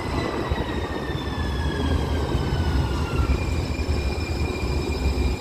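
One-car Muni Metro light-rail train pulling into an underground station, slowing down: its motor whine slides steadily down in pitch over about three seconds over a heavy low rumble, and then a steady whine takes over.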